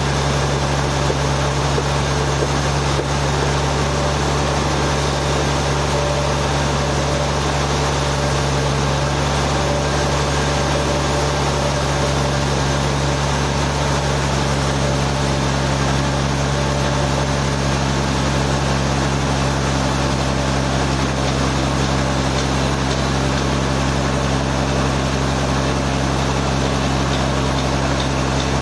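Sawmill engine running steadily, a constant low hum with no change in pitch or loudness.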